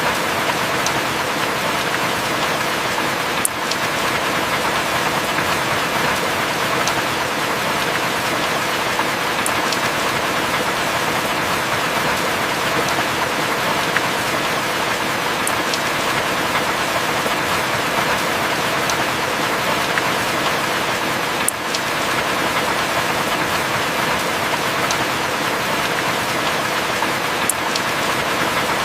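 Heavy rain falling steadily, a dense even hiss with occasional sharp drip ticks.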